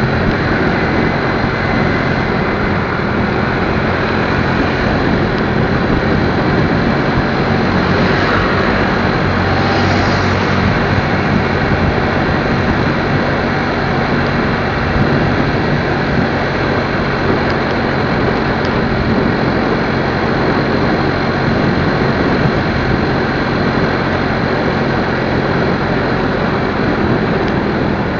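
Motorcycle engine running steadily while riding, under a constant rush of wind noise.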